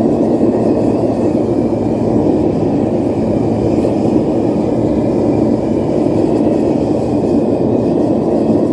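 Propane forge burner running: a loud, steady rushing roar of gas flame.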